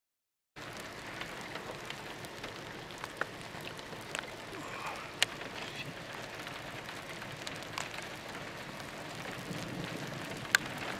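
Steady hiss of rain falling, starting after a moment of silence, with a handful of sharp ticks of drops striking close by, the loudest about halfway through and near the end.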